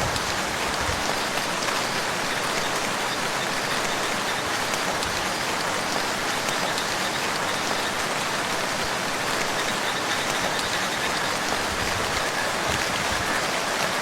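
Steady rain falling on a lake, a dense, even hiss of drops striking the water.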